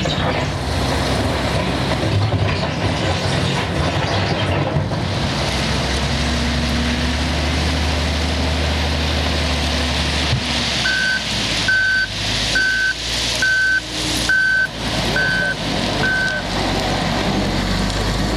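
Heavy diesel machinery running steadily, a Komatsu WA480-6 wheel loader working at a truck. About halfway through, a reversing alarm sounds seven short high beeps, a little under a second apart.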